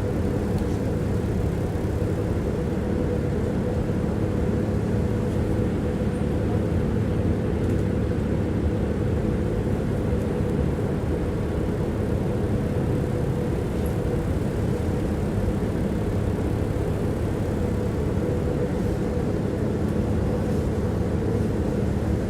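Tram running along its track, heard from inside the passenger car: a steady rumble with an even, low hum throughout.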